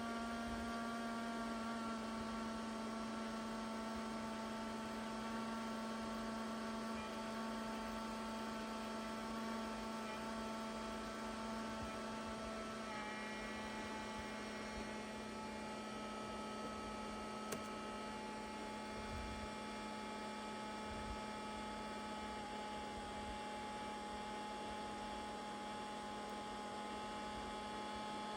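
2004 IBM ThinkPad T42 laptop running with a steady hum and several thin high whining tones, which change pitch about halfway through. These are the odd noises the faulty laptop makes as it powers up.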